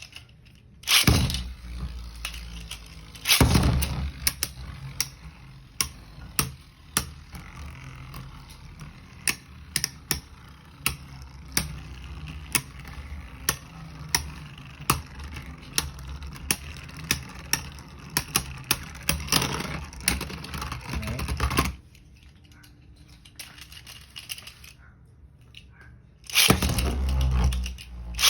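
Beyblade Burst tops launched into a plastic stadium, spinning with a steady rush and clashing in many rapid, sharp clicks. The spinning noise cuts off a little past twenty seconds in, and a new loud rush starts near the end.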